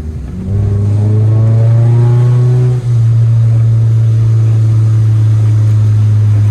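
Car engine under hard acceleration, its pitch climbing for about two seconds. Near three seconds in there is a brief drop for a gear change, after which the engine holds a loud, steady drone.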